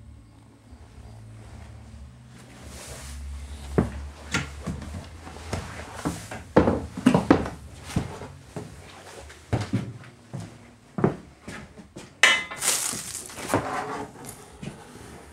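A series of irregular knocks, clunks and rattles, as of things being handled or moved about, the busiest stretch coming in the middle, with a steady low hum fading out in the first couple of seconds.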